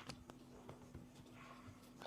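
Near silence: a steady low hum with a few faint, short ticks.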